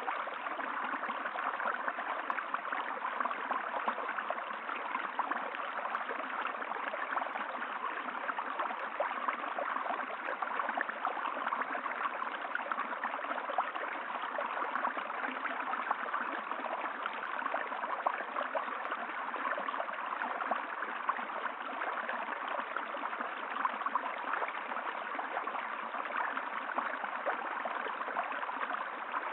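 Water of a stream flowing steadily, a continuous even rush of fine splashing and gurgling.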